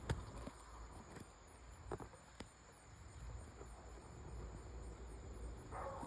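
Quiet outdoor background: faint, steady insect calls high in pitch, with a low rumble and a few soft clicks.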